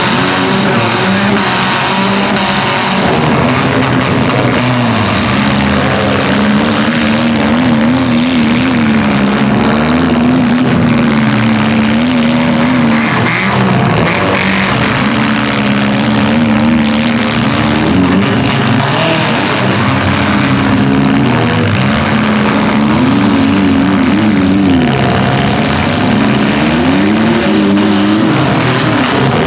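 Engines of several compact demolition-derby cars revving and running hard, their pitch rising and falling over and over.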